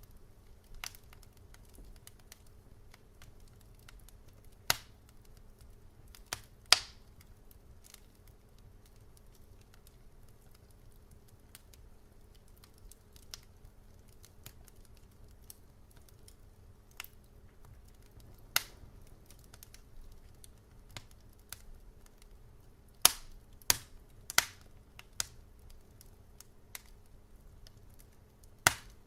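Wood fire burning in a fireplace, with irregular sharp crackles and pops over a faint low rumble; a handful of louder pops stand out, several close together about three quarters of the way through.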